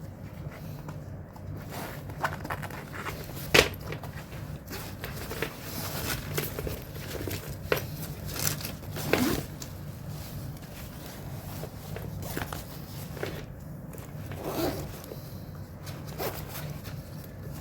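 Packaging being handled and opened by hand: irregular rustling, scraping and clicks, with one sharp click about three and a half seconds in, over a steady low hum.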